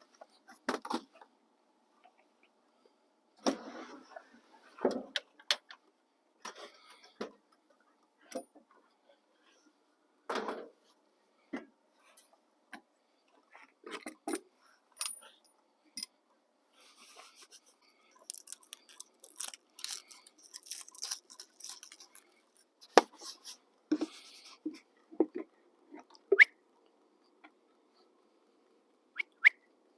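Irregular handling noises: scattered clicks, knocks and short bursts of rustling and crinkling as things are picked up and moved about, busiest a little past the middle.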